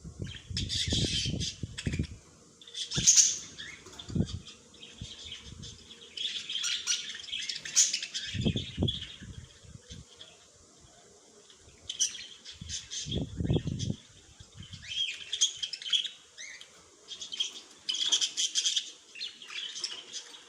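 Small birds chirping and twittering in bursts of rapid high notes every few seconds. A few short low thumps come in between, near the start and twice more partway through.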